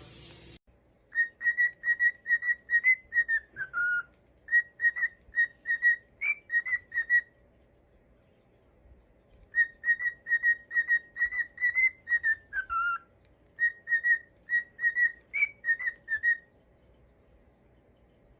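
A pet parrot whistling a short tune: quick repeated notes on one pitch, each phrase ending in a falling note. The same tune comes twice, with a pause of about two seconds between.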